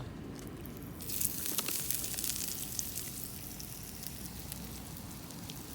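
Fish pieces frying in hot oil in a pan, the sizzle starting sharply about a second in as the fish goes into the oil, then slowly settling.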